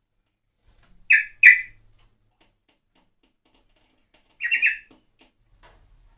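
Yellow-vented bulbul (trucukan) calling: two short, bright notes about a second in, then a longer chattering burst a little past four seconds.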